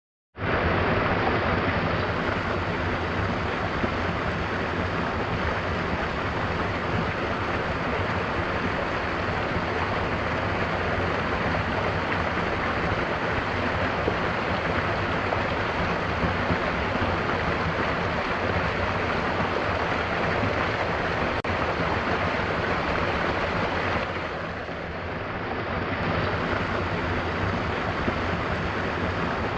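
Mountain waterfall, water falling and splashing in a steady rushing roar. It dips briefly about three-quarters of the way through.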